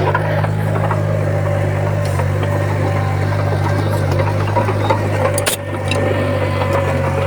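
Komatsu bulldozer's diesel engine running steadily with a deep drone and a constant whine, with a brief dip about five and a half seconds in.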